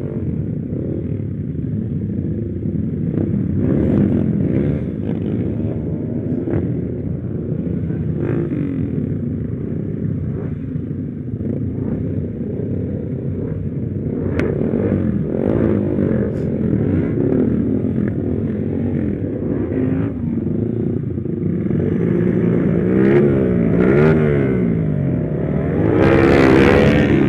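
Small motorcycle engine running on the move, its revs rising and falling. Near the end other motorcycle engines join in, several pitches rising and falling at once and growing louder.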